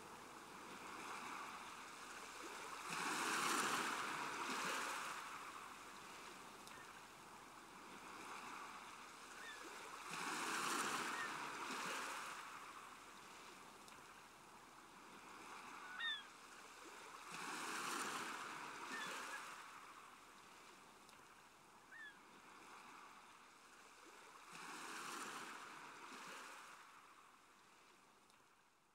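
Ocean surf, faint: waves swelling and washing out about every seven seconds, with a few short high chirps between them. The sound fades away near the end.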